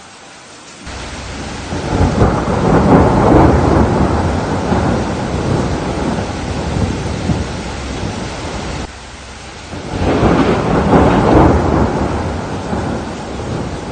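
Steady rain with two long rolls of thunder. The first starts suddenly about a second in, swells and slowly dies away; the second rolls in about ten seconds in.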